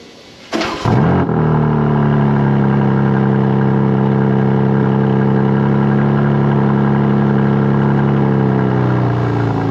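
BMW M3 Competition (G80)'s twin-turbo 3.0-litre S58 straight-six exhaust. The engine starts about half a second in with a sharp rev flare, then settles into a steady, even idle that eases slightly near the end.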